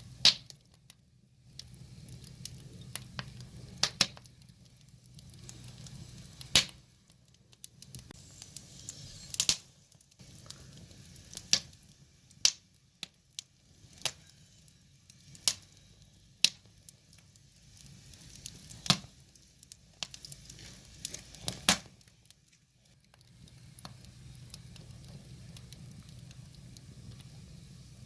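Firewood burning: a crackling wood fire with sharp, irregular pops about every second or two over a soft hiss.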